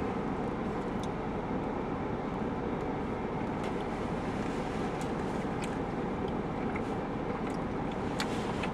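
Steady low background rumble, with a few faint clicks and smacks from chewing a bite of chili cheese hot dog.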